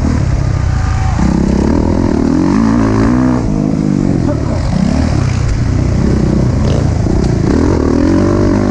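Motocross dirt bike engine being ridden hard around a track, its pitch rising and falling again and again as the rider opens and closes the throttle through the corners and jumps.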